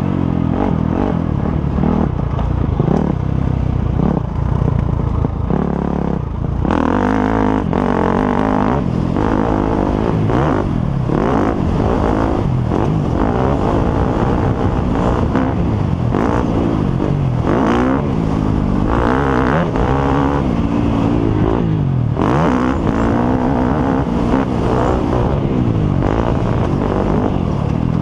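Motocross motorcycle engines revving hard, the pitch climbing and dropping again and again as the bikes accelerate and shift.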